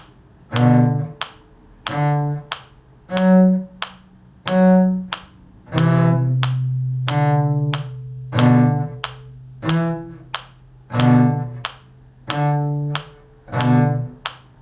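Cello playing the middle harmony part of a simple beginner's tune in separate, detached bowed notes, with a couple of longer held notes in the middle. Short sharp ticks fall between some of the notes.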